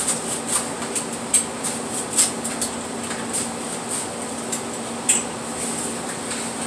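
A pizza being sliced: irregular sharp clicks and scrapes of a pizza cutter against the cutting surface, over a steady mechanical hum.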